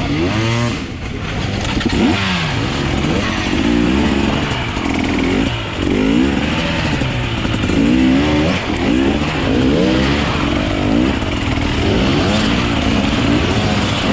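Off-road enduro motorcycle engine revving up and down over and over, its pitch rising and falling about once every second or two as the throttle is worked.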